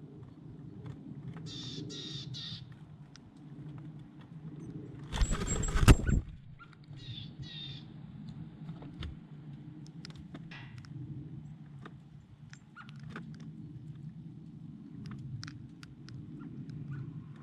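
Birds giving short, harsh calls: three in quick succession, then two more a few seconds later, with scattered small clicks over a steady low rumble. About five seconds in, a loud rush of noise lasting about a second is the loudest sound.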